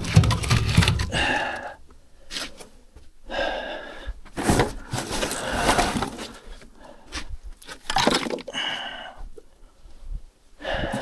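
Firewood being handled at a wood-fired boiler: irregular knocks, cracks and scrapes of split wood, with a heavier knock right at the start.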